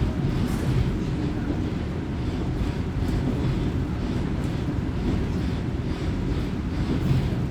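Diesel railcar heard from inside, running along the line: a steady low engine and wheel rumble with faint, irregular clicks.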